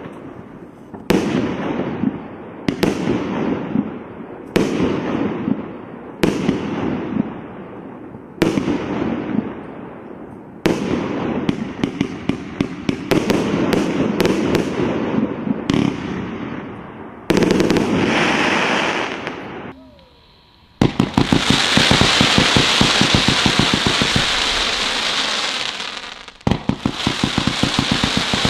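Display firework barrages firing: single bangs every second and a half or so, each trailing off, then closer volleys, and after a brief pause about twenty seconds in, a dense rapid-fire run of shots and crackle.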